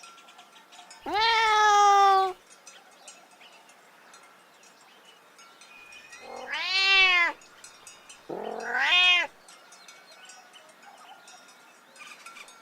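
Domestic cat meowing three times, each meow about a second long: a longer, slightly falling one about a second in, then two shorter ones a few seconds later, close together.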